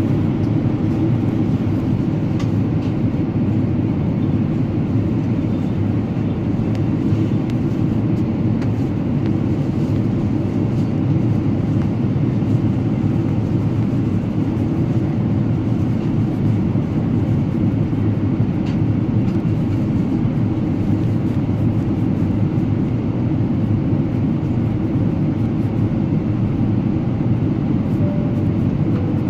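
Steady cabin noise of a Boeing 777-300ER in flight: an even, low rush of airflow and engine drone that holds level throughout.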